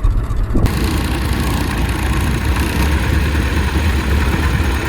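Old Hupmobile car engine idling with a steady low rumble, ahead of a timed quarter-mile launch.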